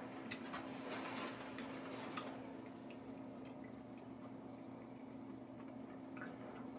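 Faint crunching and small wet clicks of a mouthful of crispy cold fried chicken being chewed with dentures, busiest in the first two seconds or so, over a steady low hum.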